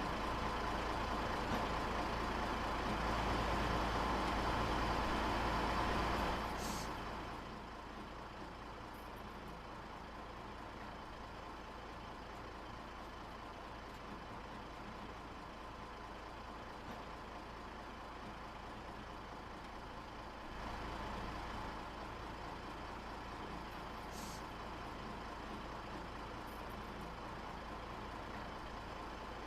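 Steady outdoor background rumble and hiss, louder for about the first six seconds and then dropping to a lower level. A faint click comes about seven seconds in and another later on.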